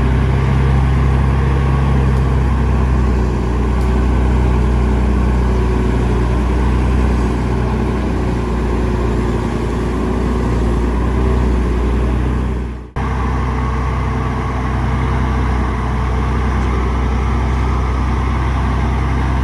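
Heavy diesel engine of earthmoving machinery running steadily under load. The sound cuts out for an instant about two-thirds of the way through and picks up again.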